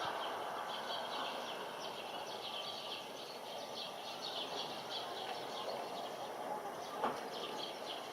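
Steady distant outdoor background noise with small birds chirping over and over, and a single sharp click about seven seconds in.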